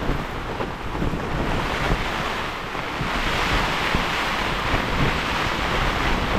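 Storm wind rushing through the campsite with rain, the wind buffeting the microphone; a gust swells a little past halfway through.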